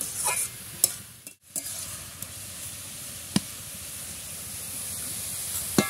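Red amaranth greens sizzling in a steel wok, a steady high hiss with a few sharp clicks, cutting out briefly about a second and a half in.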